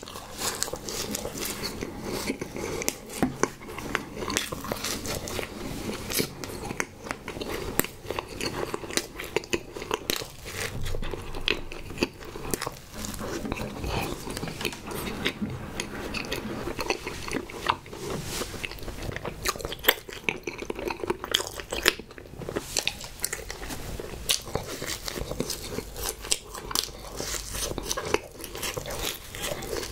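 A person biting and chewing Hostess Sno Balls, pink marshmallow-and-coconut-coated chocolate cakes, recorded close to the mouth, with a steady run of small mouth clicks throughout.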